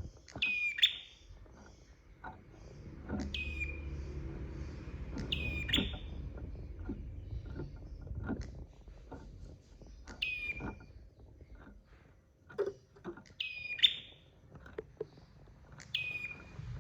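A prenjak (prinia) calls about six times, every two to three seconds. Each call is a quick sharp downward sweep ending in a short bright note. Faint scattered clicks lie between the calls.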